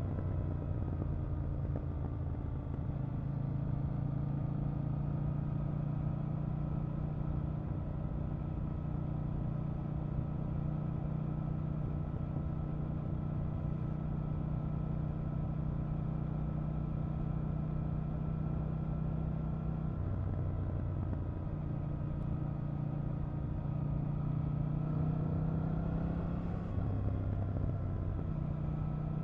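KTM 890 Duke R's parallel-twin engine running under way, its pitch mostly steady. The pitch drops about twenty seconds in, then climbs twice near the end with a gear change between.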